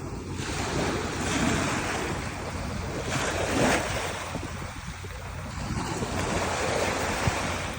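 Wind buffeting the microphone over the wash of sea waves, a steady rushing noise that swells twice.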